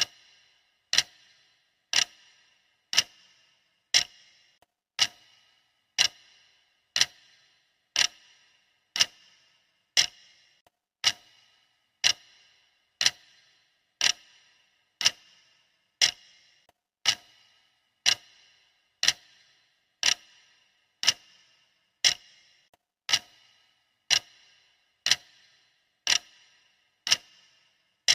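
Clock ticking steadily, one sharp tick each second with a short ringing tail.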